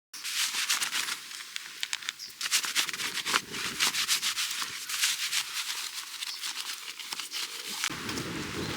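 Dense, irregular crackling and rustling: many quick clicks over a hiss, like things being handled, with a low rumble joining near the end.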